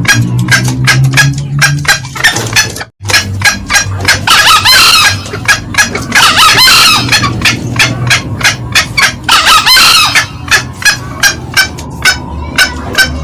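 Green junglefowl calling: a rapid, steady run of short, sharp cackling notes, about four or five a second, with three longer, louder crowing calls about four, six and a half and nine and a half seconds in. The sound cuts out for a split second near three seconds in.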